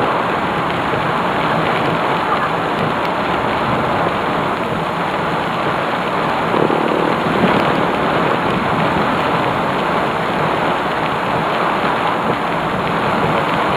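Heavy thunderstorm rain pouring down in a steady, loud downpour.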